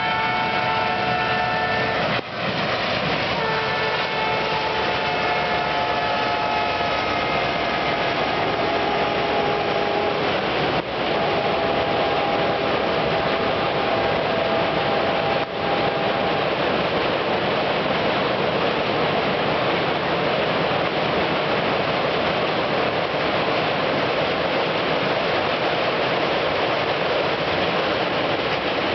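Diesel locomotive's multi-tone horn sounding in long blasts, broken by brief gaps, for roughly the first half, over the steady running noise of an express train crossing a steel truss rail bridge; after the horn stops, only the even running noise of the passing coaches remains.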